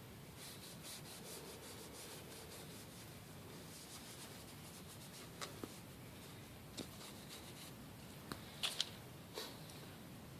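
Faint scrubbing of a Scotch-Brite pad against the back of a magnet, lightly scuffing it, with several short light clicks in the second half.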